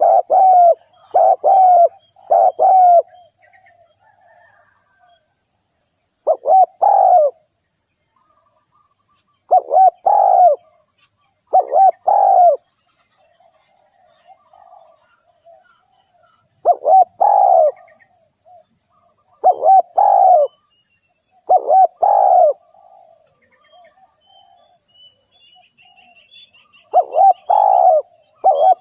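Spotted dove cooing: short phrases of a few quick coos, repeated in bouts with pauses of a second to a few seconds between them. Faint higher chirps sound in the background, over a steady thin high hiss.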